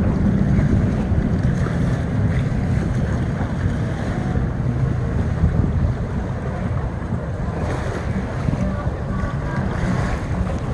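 Wind rumbling on the microphone over the wash of waves at an ocean inlet, with the steady sound of a boat's motor in the mix.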